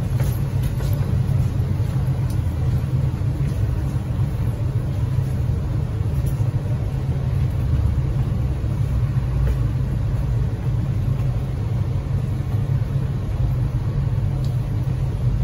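Steady low hum and rumble inside the carriage of an MTR East Rail line R-train electric multiple unit standing at a station platform.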